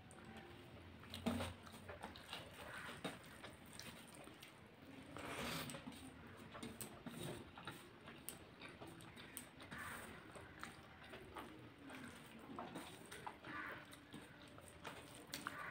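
Close-up eating sounds: soft chewing and wet mouth noises, with fingers mixing rice and vegetables on a steel plate, and one sharper click about a second in.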